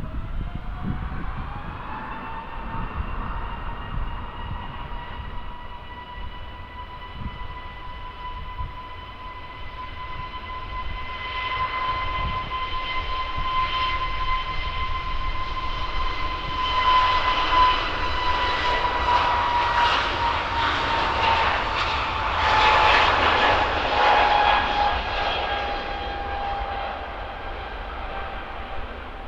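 Jet aircraft engines passing: a steady high whine that rises in pitch in the first couple of seconds, then grows louder with a rushing roar, loudest about two-thirds through, and drops in pitch as the aircraft goes by.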